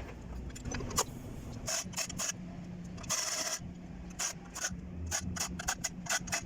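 Hand-tool work on metal during a crankshaft rear oil seal job: a string of short clicks and knocks, with one longer scrape about three seconds in, over an on-and-off low hum.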